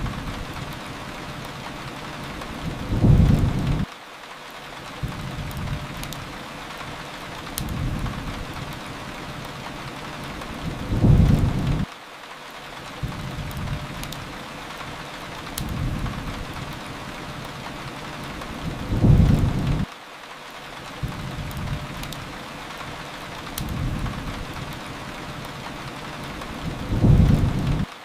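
Steady rain hiss with a low rumble that swells about every eight seconds, four times, and cuts off abruptly each time: a short looped recording. A few sharp clicks are scattered through it.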